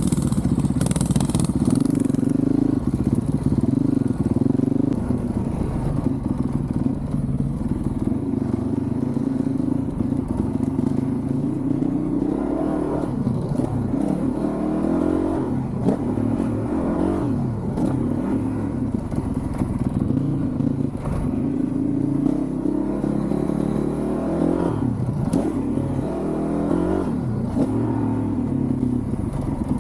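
2023 Honda CRF450RL single-cylinder four-stroke dirt bike running through a full titanium Yoshimura RS-4 exhaust while ridden on a motocross track. The engine pitch rises and falls again and again as the throttle is opened and closed.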